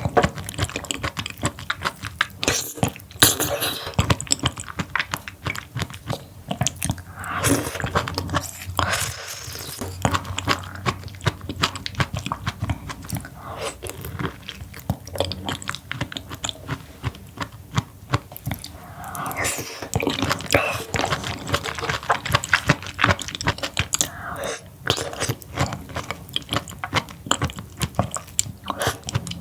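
A person eating seafood close to the microphone: dense, irregular chewing and biting clicks, with a few longer smeared mouth sounds about eight and twenty seconds in.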